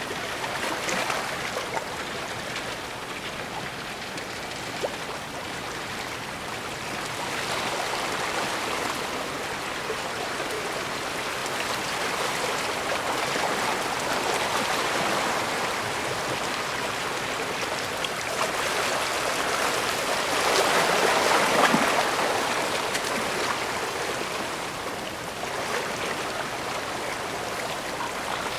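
Bay water washing and splashing against the shore in a steady rushing hiss that swells and eases, loudest about three quarters of the way through.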